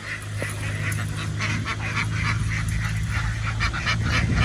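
A flock of farmed ducks quacking continuously, many short calls overlapping, over a steady low hum.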